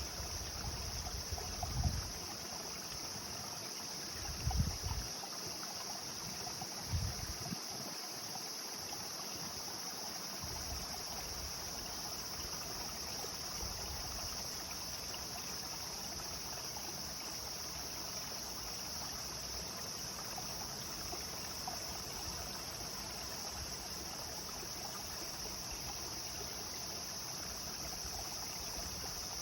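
Clear river water flowing and rippling steadily, with a constant high insect drone. A few brief low thumps in the first seven seconds or so.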